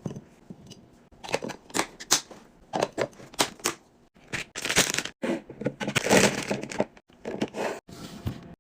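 Containers and packaging being handled while a fridge is cleaned or restocked: a quick run of clicks and knocks, with two longer stretches of crinkling or crackling about halfway through.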